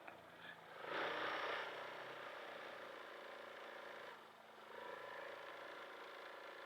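Vehicle engines running steadily in traffic, with a louder rush of noise about a second in and a brief dip a little after four seconds.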